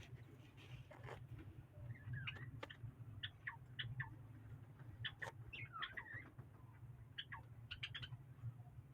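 Small cage birds giving short, high chirps and brief twittering calls, scattered irregularly, over a low steady hum.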